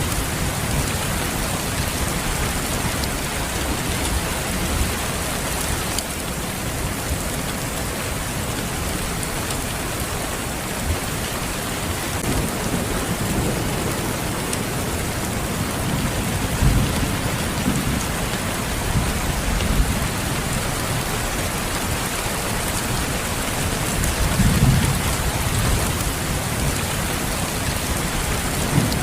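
Steady, heavy rain falling, with low rumbles that swell up several times, about midway and again near the end, typical of distant thunder.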